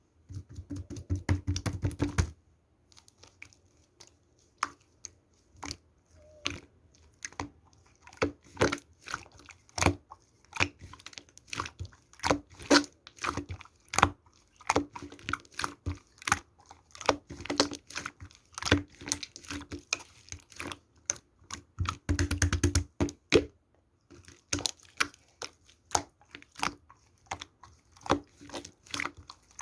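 Hands kneading and poking slime, giving a run of sticky clicks, pops and crackles. There are denser squelching bursts near the start and again about two-thirds of the way through.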